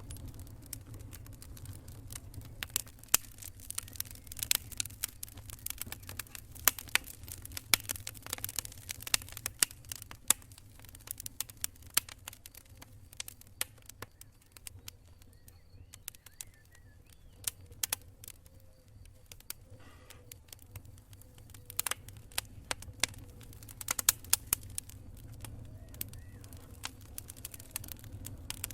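Wood campfire crackling: irregular sharp pops and snaps, coming in thicker clusters at times, over a steady low rumble.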